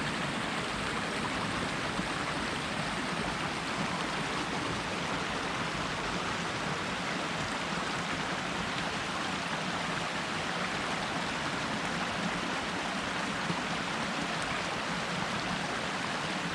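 Creek running full after heavy rain: a steady rush of water.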